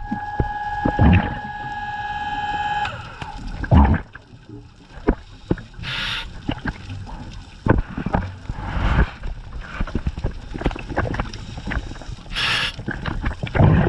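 Scuba diver breathing through a regulator underwater: two short inhalation hisses about six seconds apart, with rumbling bursts of exhaled bubbles, over a steady crackle of clicks. A steady pitched whine stops about three seconds in.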